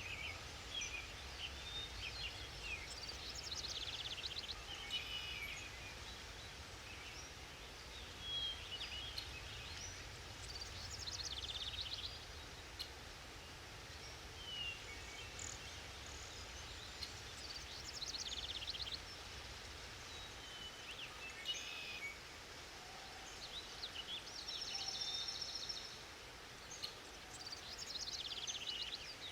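Several forest birds singing and calling, with short trills and chirps coming every second or two, over a faint steady low rumble.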